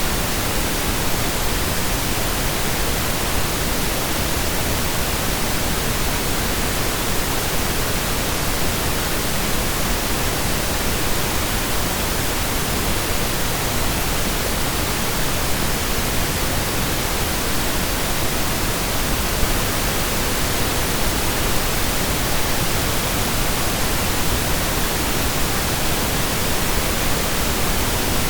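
Synthesized pink noise: a steady, even hiss spread across the whole audible range, with equal energy per octave, unchanging throughout.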